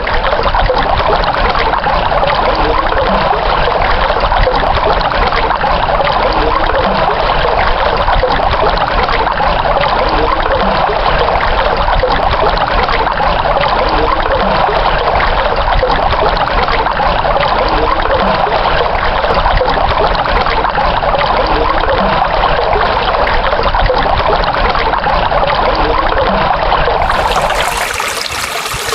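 Running water trickling and splashing steadily. Near the end the sound shifts, becoming a little quieter and brighter.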